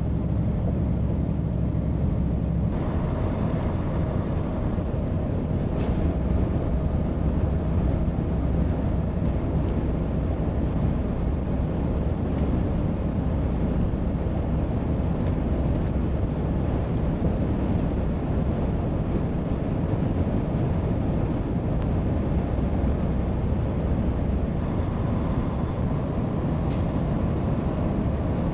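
Steady road and engine noise inside the cab of a moving Freightliner Cascadia straight truck at highway speed.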